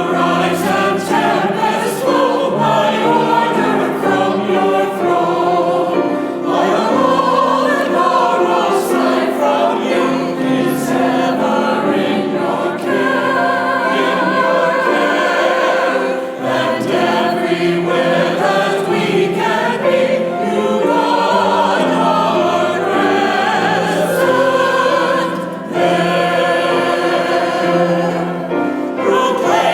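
A church choir singing special music, several voices holding long notes with vibrato, with short breaks between phrases.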